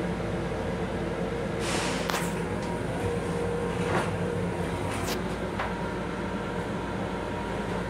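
Steady rumble and hum of a running Long Island Rail Road M7 electric railcar, heard inside its small restroom. A short hiss comes about two seconds in, and there are a few sharp clicks and knocks from the toilet seat being handled, the loudest about halfway through.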